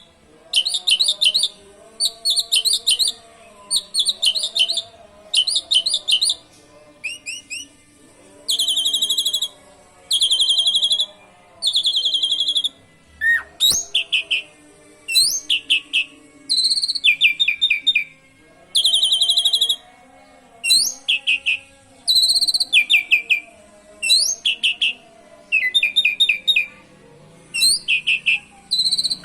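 A pied starling (jalak suren) singing canary-like phrases: short bursts of rapid high trills repeated over and over with brief pauses between them.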